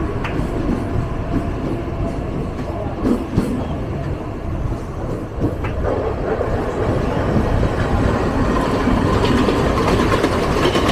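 Mumbai suburban local train running, heard from on board: a steady rumble of wheels on rail with occasional sharp clicks over rail joints. It gets louder about halfway through as the train pulls away from the station.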